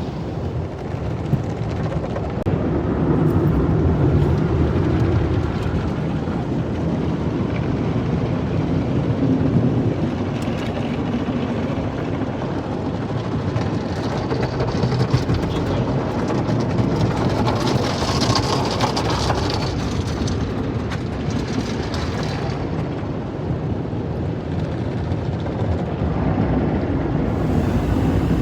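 Car wash running: a steady rumble of machinery with water spraying, and a higher hiss of spray swelling for several seconds about halfway through.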